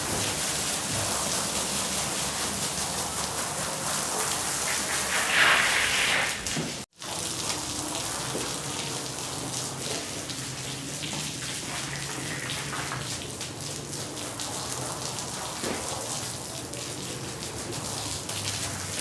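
Water spraying and splashing onto a wet rug as it is washed, a steady hiss broken by a brief cut about seven seconds in.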